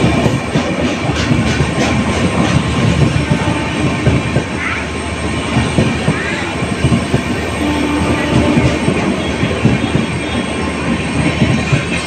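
Indian Railways passenger coaches rolling past alongside a platform: a steady loud rumble of wheels clattering over the rails, with a couple of brief squeals about four and six seconds in.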